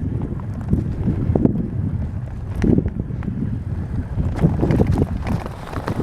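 Wind buffeting the microphone in a steady low rumble, with irregular knocks and rustles.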